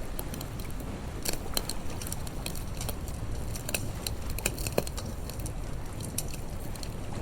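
Campfire crackling, with irregular sharp pops and snaps, one louder pop nearly five seconds in, over a steady low rumble.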